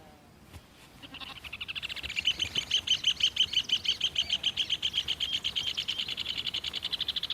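Rufous hornero (red ovenbird) pair calling in their loud duet: a long, rapid run of sharp repeated notes, about eight a second, that starts about a second in and grows louder.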